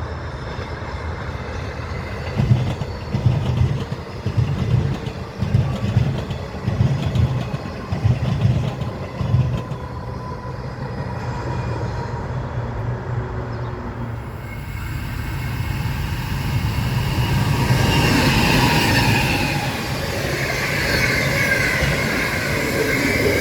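A train running past with a pulsing low rumble from its wheels. From about halfway, a high, gliding squeal builds up and grows louder toward the end.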